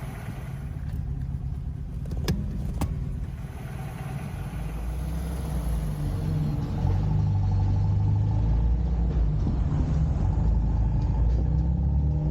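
Car engine and road rumble heard while driving, steady and low, getting louder from about seven seconds in. Two brief clicks sound between two and three seconds in.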